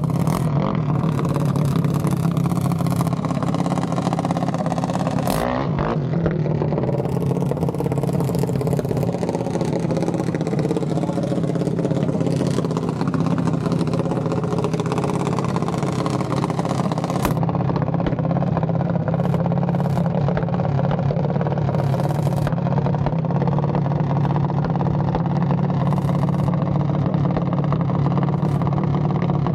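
Mini bike engines running and revving, their pitch rising and falling, over a steady low engine drone, with a few sharp pops.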